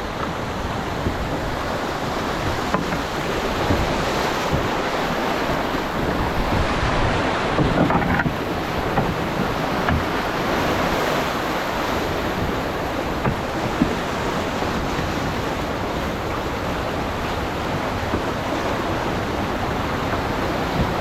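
River water rushing and churning around a raft, a steady loud wash of whitewater, with wind buffeting the microphone.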